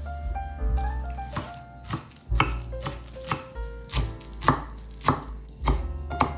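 Green onions being chopped with a knife on a cutting board: a series of sharp strikes about every half second, over background music.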